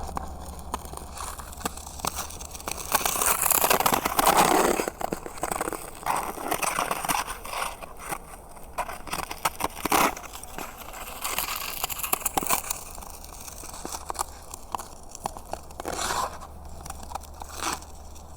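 Footsteps crunching through snow on a frozen pond, in irregular crunches of varying loudness, with a steady low hum underneath.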